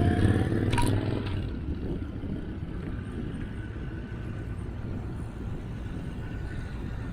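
Road traffic: a motor vehicle pulling away, loud for the first second or so and then fading, with a sharp click about a second in, followed by a steady low traffic rumble.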